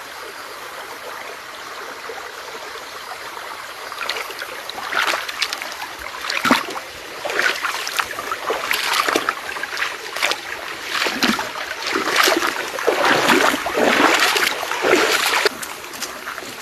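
Stream water running steadily, joined about four seconds in by a run of irregular splashing that stops shortly before the end.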